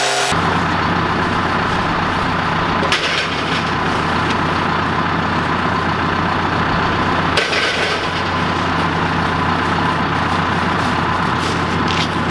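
Tractor engine running steadily at low speed, with a couple of brief knocks about three and seven seconds in.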